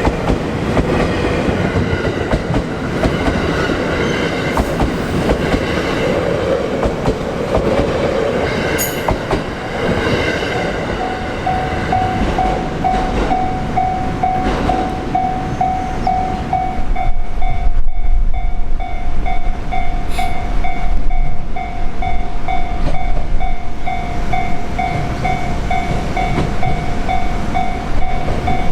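A train, most likely a freight train on this freight-only line, passes over a Japanese level crossing with a heavy rumble and the clickety-clack of wheels over rail joints. The crossing's warning bell rings in an even, repeating beat, clearest from a little before halfway. The train gets louder in the second half.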